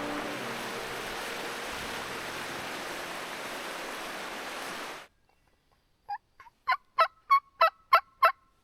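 A steady rushing noise that cuts off suddenly about five seconds in. Then a wild turkey calls: a run of about eight short, evenly spaced notes, about three a second, growing louder.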